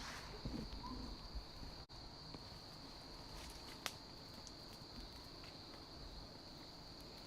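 Faint, steady, high-pitched chorus of night insects, with a single sharp click about four seconds in.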